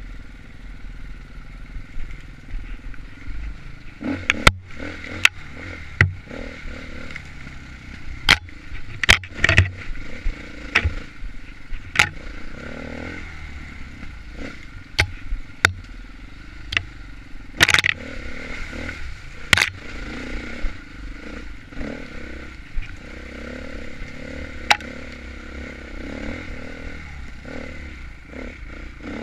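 Off-road enduro dirt bike engine running steadily under the rider, with frequent sharp knocks and clatters as the bike crosses rough ground. The strongest knocks come about four seconds in, around nine to ten seconds, and about eighteen seconds in.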